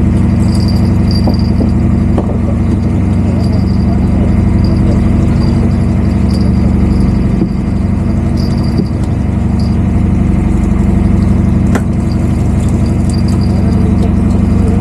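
Fishing boat's engine running steadily with a low, even hum, with a sharp click about twelve seconds in.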